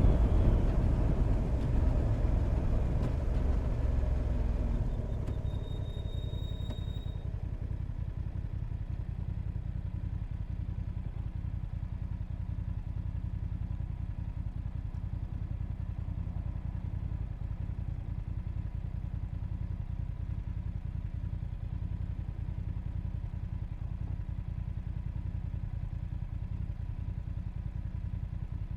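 Motorcycle riding sound, engine and wind, fading over the first five seconds as the bike slows, then the engine idling steadily with a low rumble. A short high electronic beep sounds about five seconds in.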